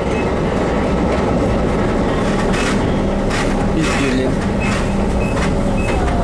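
Inside a moving double-deck commuter railcar: the steady, loud running noise of the wheels on the track, with irregular clacks and rattles from the car. It is noisy enough that the narrator wonders whether his voice can be heard over it.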